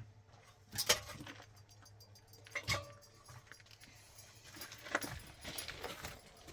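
Scattered knocks and clinks of objects being handled, the two loudest about a second in and near three seconds, with lighter clicks near the end.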